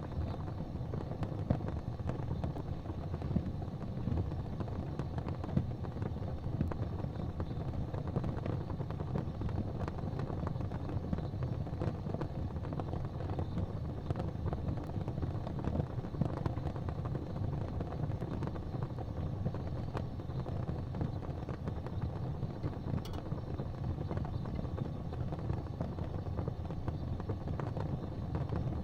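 Wood fire crackling in a fireplace: scattered pops and crackles over a low, steady rumble.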